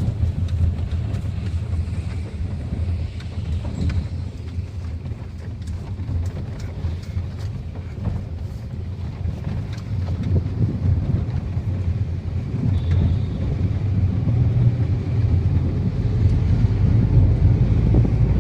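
Car running on the road: a low, steady rumble of engine and tyres with wind buffeting the microphone, growing gradually louder.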